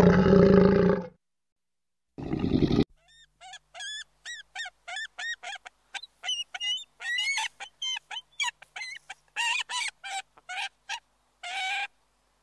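Waterfowl honking: a rapid run of short, pitched honking calls, about two or three a second, after a loud lower call at the start and a shorter one about two seconds in.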